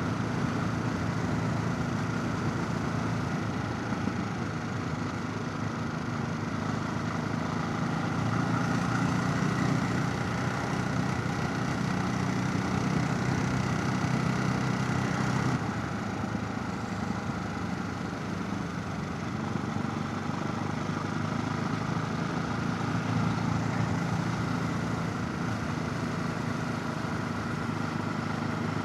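Motorcycle engine running while riding, with wind rush, heard from a chin-mounted helmet camera. The engine note grows louder about eight seconds in and drops off suddenly about seven seconds later.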